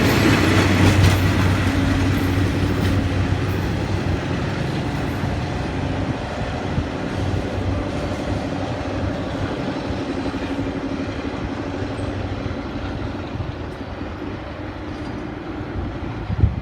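Diesel-hauled passenger train pulling out and moving away. A steady engine drone and the rumble of the cars on the rails fade gradually as it goes.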